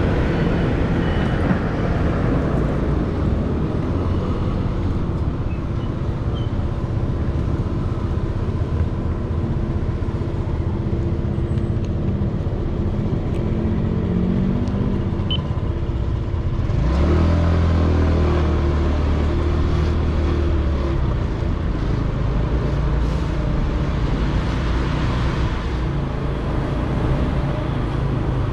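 Motorcycle riding sound picked up by a helmet-mounted camera behind a foam wind-noise sponge: a steady engine hum under muffled wind and road noise. About seventeen seconds in a louder engine sound comes up with a rising pitch, then fades back after a few seconds.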